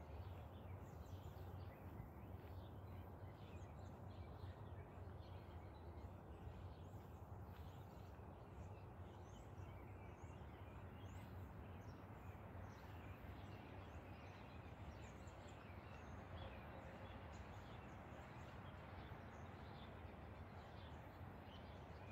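Near silence: faint outdoor background with a steady low hum and small birds chirping faintly now and then.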